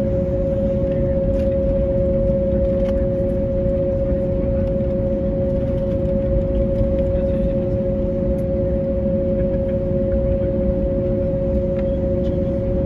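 Cabin noise inside an Airbus A321neo on the ground after landing: a steady hum with two constant tones over a low rumble, with a few faint ticks.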